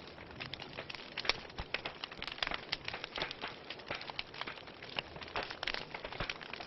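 Wood fire crackling in a fireplace: many small irregular pops and snaps over a soft steady hiss of burning.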